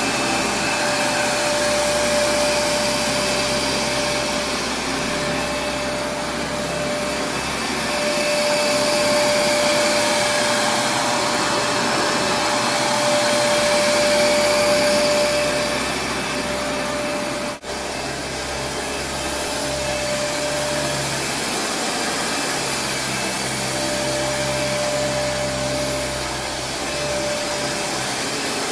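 Kenmore Progressive DirectDrive upright vacuum cleaner running steadily, a motor whine over its rushing airflow, swelling and easing slightly in loudness, with a momentary dropout about two thirds of the way through.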